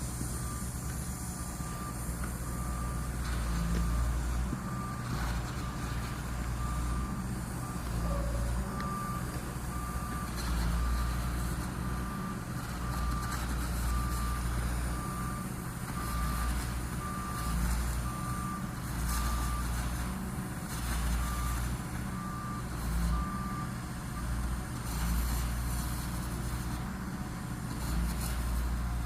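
Backup alarm of a maintenance-of-way work vehicle reversing, beeping steadily about once a second and stopping near the end, over the low rumble of its running diesel engine.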